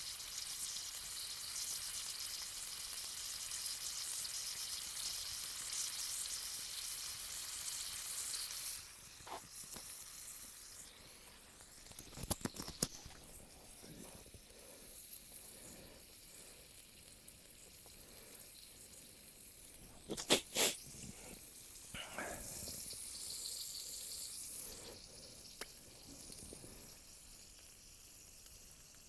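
Slices of pork and eggs sizzling in a frying pan over a campfire, loud for the first nine seconds or so, then much fainter, with a few sharp clicks later on.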